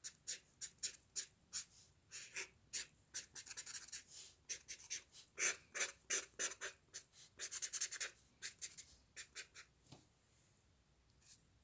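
Drawing strokes on paper: short, quick scratching strokes of a drawing tool, about two or three a second, as lines are sketched or shaded in. They stop near the end.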